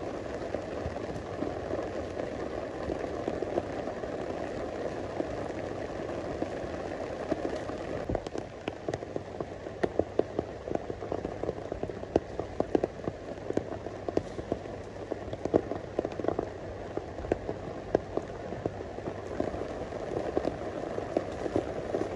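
Steady tropical rain falling, with a scatter of sharp taps of drops through the middle stretch.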